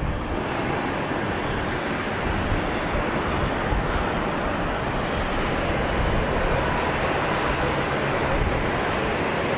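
Jet engines of an Airbus A320 airliner: a steady rushing noise holding an even level.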